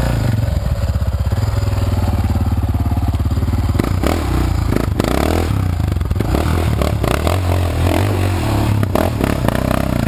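Motorcycle engine running with the revs rising and falling as it rides over rough ground, with clattering knocks and scrapes about four seconds in and again near the end.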